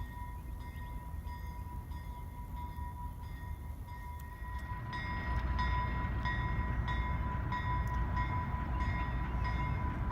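Diesel switcher locomotive's bell ringing steadily, about two strikes a second. About halfway through, the low rumble of the locomotive's engine grows louder as it moves in.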